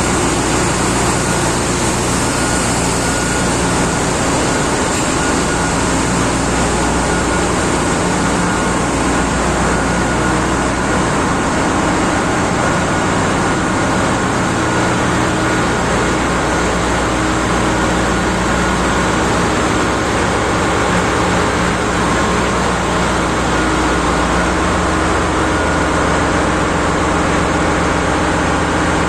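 Engine-room machinery of a large gas-carrier ship running: a loud, steady, unbroken din with a constant low hum and a thin steady higher tone above it.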